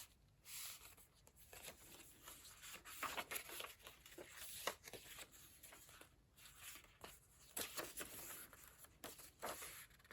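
Faint, irregular rustling and soft flicks of paper pages and tags being handled and turned in a thick handmade junk journal.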